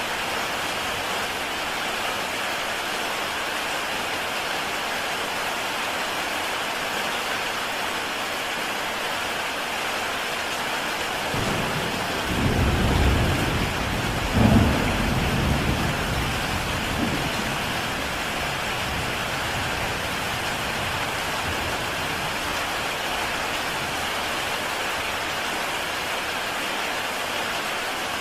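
Heavy rain falling steadily on a tile roof. About halfway through, a roll of thunder rumbles in, peaks in a sharper crack, and dies away over a few seconds.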